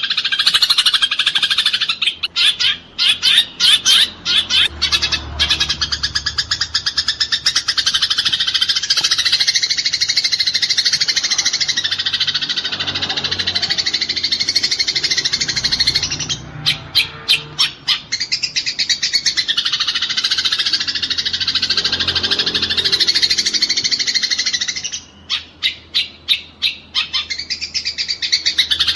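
Eurasian tree sparrows chirping in a dense, unbroken chatter, the agitated calling of sparrows squabbling. Three times it breaks into a short run of very fast, stuttering notes: about two seconds in, about halfway through, and a few seconds before the end.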